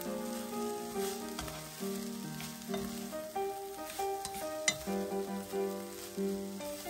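Shredded dried filefish in a sticky chili sauce sizzling in a frying pan as it is stirred and tossed with chopsticks, with small clicks of the chopsticks on the pan and one sharper click about two-thirds of the way through. Background music with sustained notes plays underneath.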